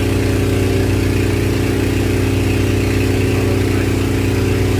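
Boat engine running steadily at an even speed: a constant low, droning hum.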